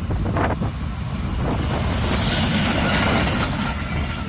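Passenger train running along the track, a steady noise of the train and its wheels on the rails that swells a little in the middle.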